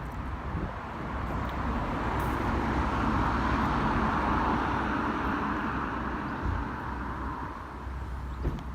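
A passing road vehicle: a broad tyre-and-engine noise that swells to a peak around the middle and fades away, over a steady low rumble.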